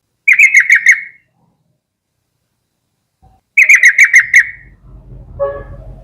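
Yellow-vented bulbul calling: two quick bubbling phrases of about six rapid notes each, one at the start and another about three and a half seconds in. A fainter, lower sound follows near the end.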